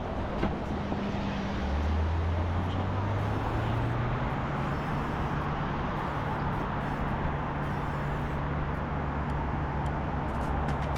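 City road traffic: a motor vehicle's engine nearby, starting about two seconds in and rising a little in pitch before holding steady, over a constant rush of traffic and road noise.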